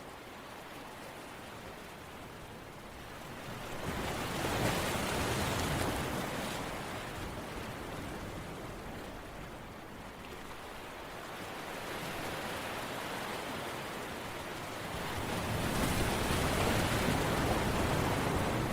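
Even rushing noise of surf that swells about four seconds in and again near the end, ebbing in between in a slow rise and fall.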